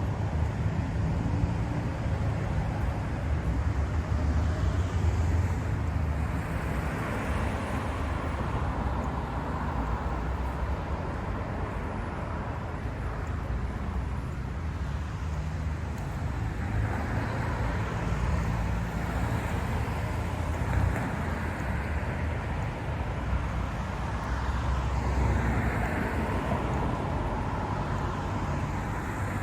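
Road traffic: cars passing on a road close by over a steady low rumble, swelling and fading as each goes past.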